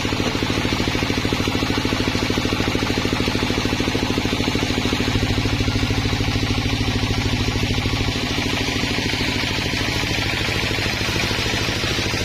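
A sawmill's engine running steadily with a rapid, even beat; the deep part of the sound eases a little about eight seconds in.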